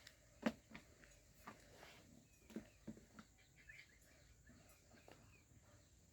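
A few short, sharp knocks, the loudest about half a second in, over faint bird chirps in a quiet background.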